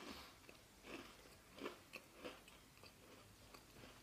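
Faint chewing of a crunchy Ovomaltine cocoa biscuit with cream filling, with about four soft crunches in the first two and a half seconds, then little more.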